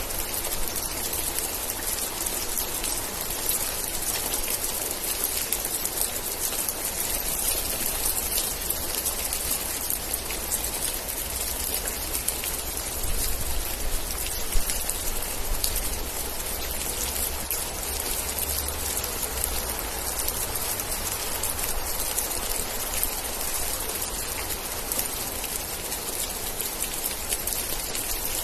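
Steady rain: a dense patter of drops over a continuous hiss, with a low rumble underneath that swells a little around the middle, where one sharper drop or tap stands out.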